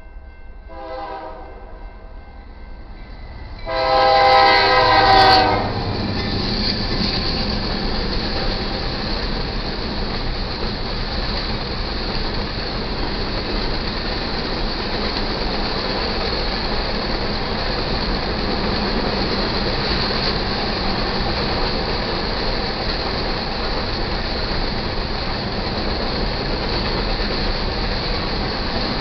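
Diesel locomotive air horn giving a short blast about a second in, then a louder, longer blast around four seconds in, as the train reaches the grade crossing. After that comes the steady rumble and clatter of the grain train rolling past on the rails.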